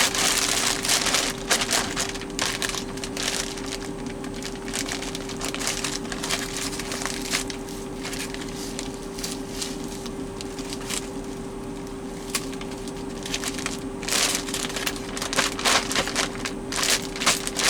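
Plastic freezer bag crinkling and crackling as frozen fish fillets are packed into it and the air is pressed out, busiest near the start and again near the end, over a steady hum.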